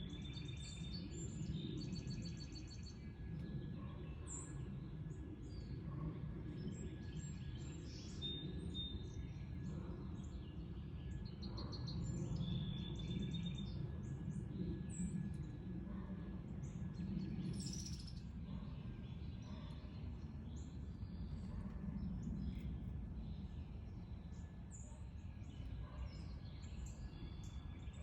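Several songbirds chirping and calling in short, scattered notes, with a few quick trills, over a steady low background rumble.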